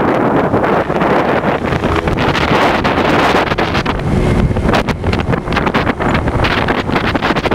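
Wind buffeting the microphone in a steady, uneven rush, over the low rumble of a vehicle on the move.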